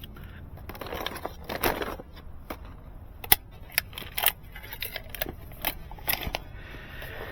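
Scattered light clicks and rustles of hands handling fiber-splicing gear and cable, with one sharp click a little over three seconds in.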